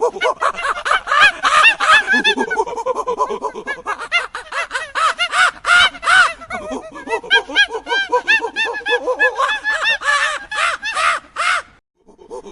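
Monkeys calling: a dense run of short, high, overlapping calls, each rising and falling in pitch, breaking off briefly near the end.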